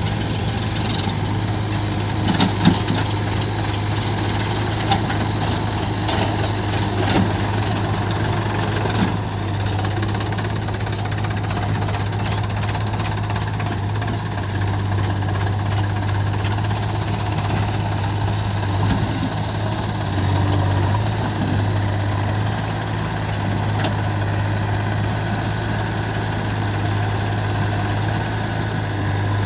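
Heavy diesel engine running steadily at idle, with a few short knocks and clanks in the first ten seconds.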